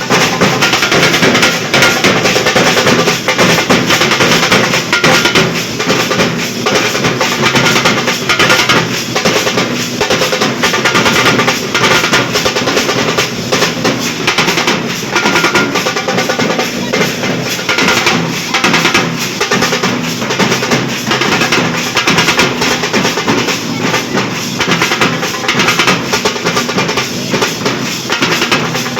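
Nashik dhol drumming: a group of big barrel drums beaten loud and without a break in a fast, dense rhythm.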